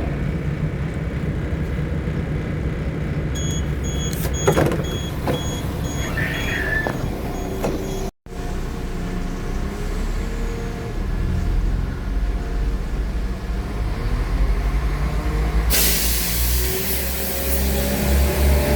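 Class 172 diesel multiple unit heard from on board: a steady low engine rumble, with a run of short repeated beeps a few seconds in. After a break the diesel engine note rises as the train picks up, with a hiss joining near the end.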